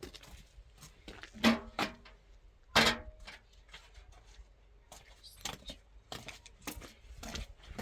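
Scattered light clicks and knocks of objects being handled, with two short, louder pitched calls or cries about a second and a half and three seconds in.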